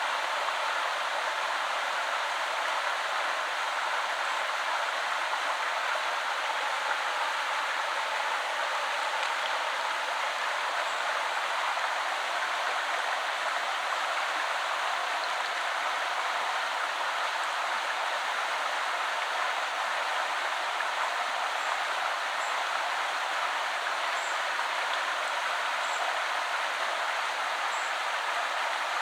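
A woodland river flowing: a steady, even rush of running water.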